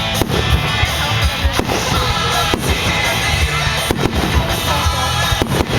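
Aerial fireworks bursting: a string of sharp bangs about once a second over a steady rumble and crackle of the display.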